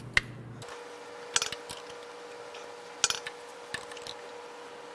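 Metal hand tools clinking and clicking against fittings while working loose the power steering lines: a sharp click near the start, then clusters of clinks about a second and a half and three seconds in, over a faint steady hum.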